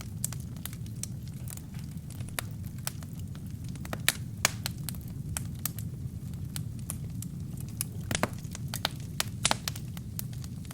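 Wood and kindling fire burning with a steady low rumble and frequent irregular crackles and pops, a few sharper pops standing out about four seconds in and again near the end.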